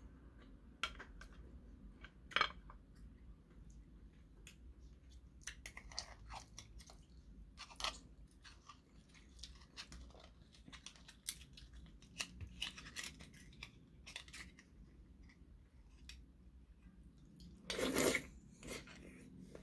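Quiet, close chewing of seafood from a bowl of jjamppong, with scattered sharp clicks of a metal fork and spoon against shells and the dish. A louder mouth sound comes near the end as a piece of shellfish goes into the mouth.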